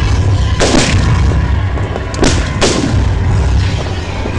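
Fireworks display: four loud bangs in two pairs, one pair about half a second in and another about two seconds in, each with a short echoing tail, over a steady low rumble.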